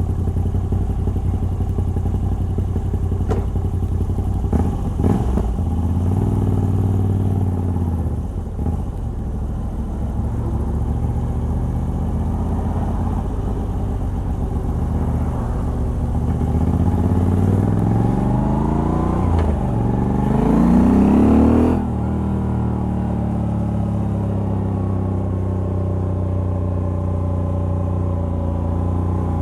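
Moto Guzzi V85TT's air-cooled transverse V-twin, on a stock exhaust with a decat pipe, running along steadily under way. Over the second half it revs up twice in quick succession as it accelerates through a gear change, then the throttle shuts off suddenly and it settles back to a steady cruise.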